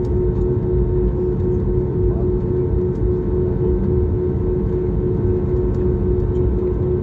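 Airbus airliner cabin noise: a steady low rumble of the engines and airflow with a constant hum-like tone running through it.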